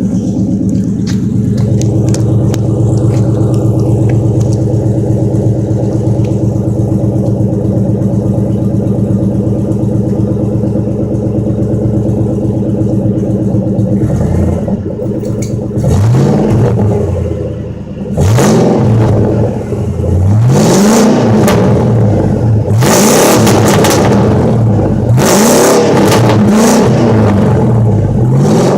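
2003 Ford F-150's 4.6 V8 through a 26-inch Cherry Bomb glasspack on otherwise stock exhaust, idling steadily, then from about halfway through blipped in a string of quick revs, each rising and falling back, about every two seconds.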